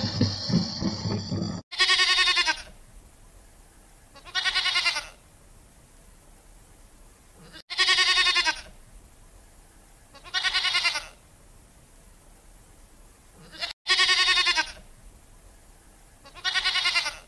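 Goat bleating, six calls about two and a half seconds apart, each lasting under a second. A low rumbling growl cuts off just before the first bleat.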